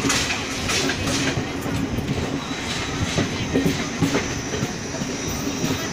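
Passenger train running at speed, heard from aboard the coach: a steady rumble of wheels on the track with irregular clicks as they pass over rail joints.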